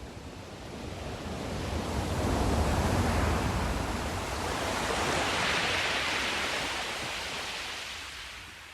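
Ocean wave breaking and washing up the shore: a low rush builds to a peak about three seconds in, then a hissier wash follows and fades away near the end.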